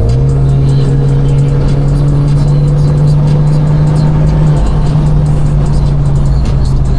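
Straight-piped BMW 428i exhaust droning at a steady engine speed, with no climb in pitch, dropping a little in pitch about halfway through and again near the end. Music plays alongside.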